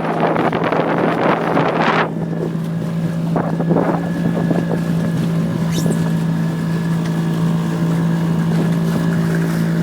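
Small boat's motor running steadily at an even pitch. Wind noise buffets the microphone for the first two seconds and then stops suddenly.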